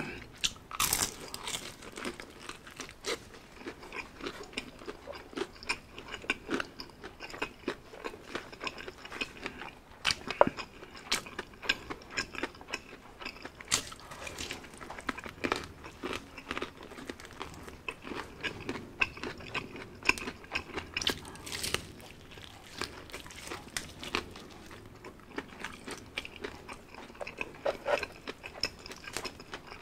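Close-miked eating sounds: a person biting into and chewing crispy Jollibee Chickenjoy fried chicken, the breading crunching and crackling in many short sharp clicks over wet chewing.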